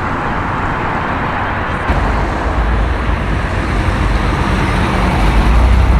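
Road traffic with a car engine running. There is a click about two seconds in, after which a low engine rumble grows louder toward the end.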